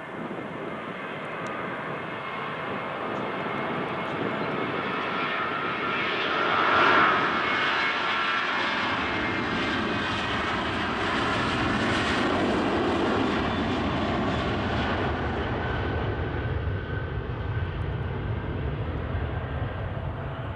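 Boeing 737-700 jet engines at takeoff power, the roar building as the plane passes, with a high whine loudest about seven seconds in. A deep rumble follows and slowly fades toward the end.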